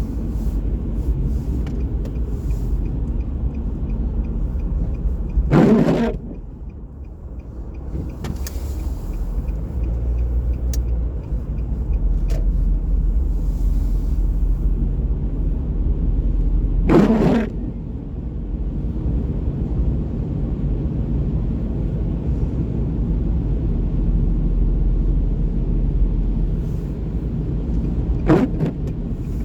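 Steady low rumble of road vehicles, with three short, loud swishes about eleven seconds apart.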